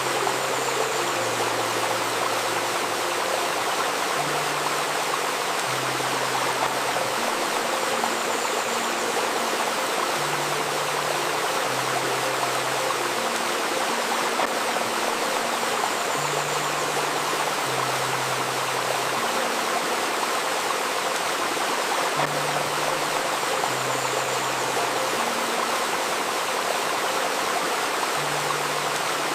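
A babbling river running steadily, with a soft, slow synthesizer melody of low held notes underneath, each note changing every second or two: a river soundscape blended with 528 Hz solfeggio healing music.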